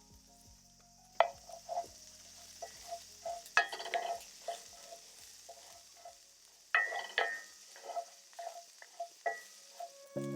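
A utensil stirring and scraping food in a cast-iron skillet, with knocks against the pan that ring briefly. Under it, the food sizzles steadily as it fries. The knocks come in clusters about a second in, three and a half seconds in and seven seconds in.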